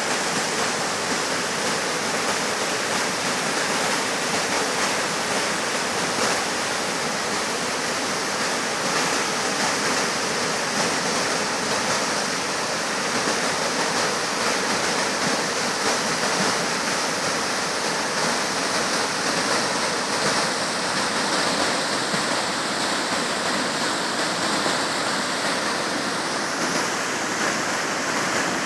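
Rushing water of a waterfall and its rapids: a loud, steady roar.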